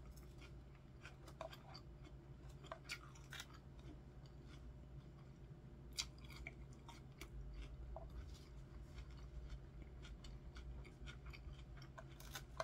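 Faint close-up chewing of a salad of iceberg lettuce, chicken and bacon bits: scattered small crisp crunches and mouth clicks.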